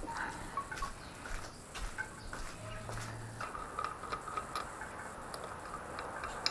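Light, irregular clicks and ticks of hand tools and small metal engine parts being handled while a motorcycle engine's top end is taken apart.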